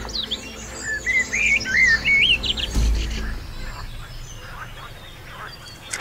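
A songbird singing a quick run of whistled notes that rise and fall, over a low rumble, with a low thump about three seconds in.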